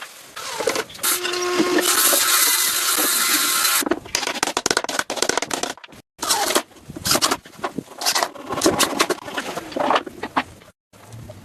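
Woodworking sounds: about two seconds of steady power-tool noise, then a run of irregular knocks and scrapes on wood, broken twice by brief silences.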